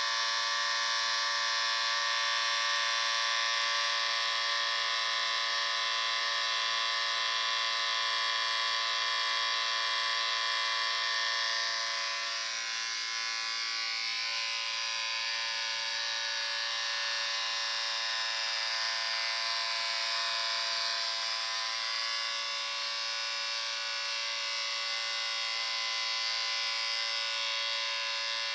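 Electric shaver running with a steady buzzing hum, its tone easing slightly for a moment about twelve seconds in.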